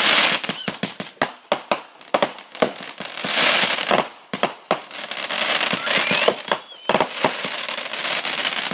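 Consumer fireworks going off: a rapid, irregular string of sharp cracks and pops over a dense crackling hiss, in swelling waves.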